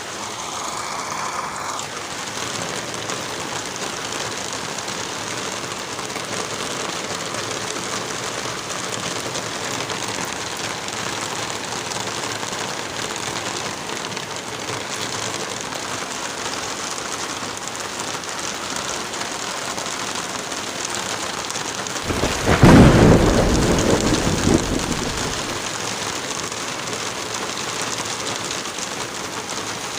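Steady rain, with one roll of thunder about three-quarters of the way through that swells and fades over a few seconds and is the loudest sound.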